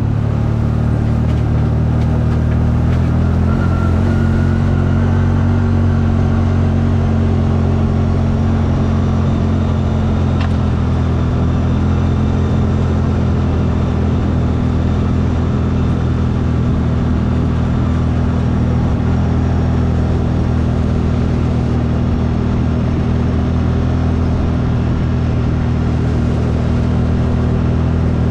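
CFMoto engine running at a steady, even speed, its note shifting slightly about four seconds in and again near the end.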